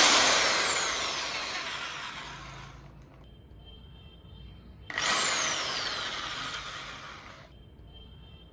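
Bosch GSB 500 RE corded electric impact drill run twice in short bursts, each starting suddenly and winding down with a falling whine over about two and a half seconds.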